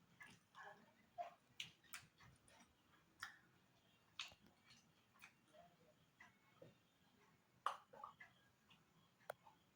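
A person eating instant noodles and boiled egg: faint, irregular wet mouth clicks and lip smacks of chewing, about a dozen over the stretch, the loudest near the end.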